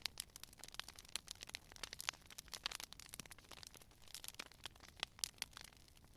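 Wood fire crackling: irregular sharp pops and snaps, several each second, over a faint low hiss.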